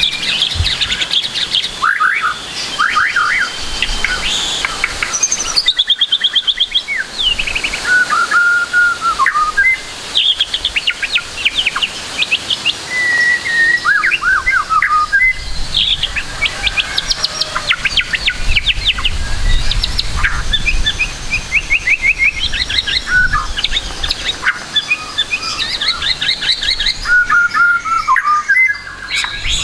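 White-rumped shama singing a long, varied song packed with borrowed phrases: rapid trills, quick sweeping notes and short held whistles, one phrase after another with barely a pause.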